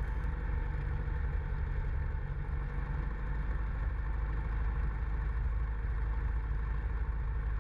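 Cockpit drone of a 1976 Cessna 172M's four-cylinder Lycoming engine and propeller, running steadily on the descent to landing.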